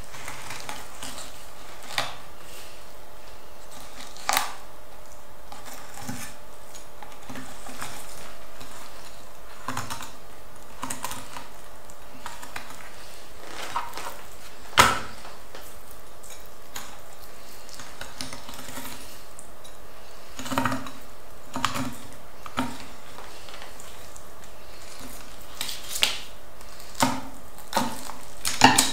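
Kitchen knife and utensils clinking and tapping against a board and dishes in scattered sharp clicks, the loudest about halfway through and a quick run of them near the end, over a steady background hum.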